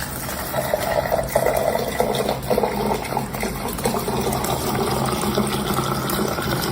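Water running, with a steady low hum beneath it.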